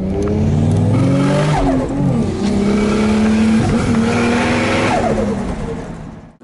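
Car engine revving hard, its pitch climbing, holding and dropping several times as if shifting gears. The sound fades away near the end.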